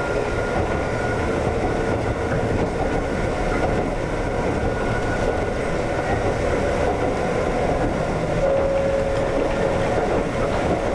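Konan Railway 7000-series (ex-Tokyu 7000) electric train running along the line: a steady rumble of wheels on rail with a faint steady whine.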